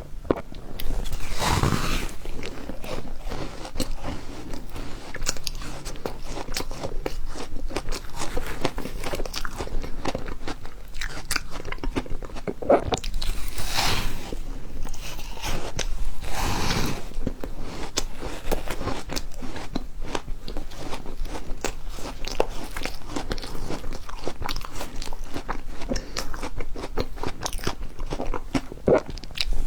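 Refrozen ice being bitten and chewed close up: a dense, unbroken run of crunching and crackling. Louder crunches come about two seconds in, about fourteen seconds in and about sixteen and a half seconds in.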